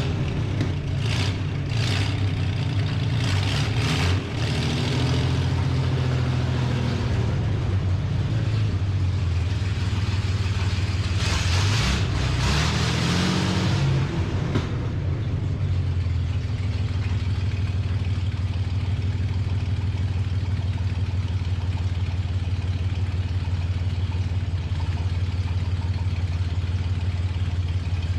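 Car engine running, its pitch rising and falling with light revving for the first half while the car is moved, then settling to a steady idle for the rest.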